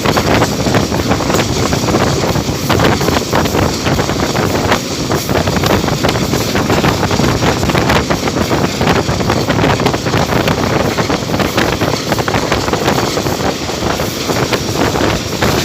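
A train running at speed: a loud, steady rumble and clatter of wheels on the track, with wind buffeting the microphone.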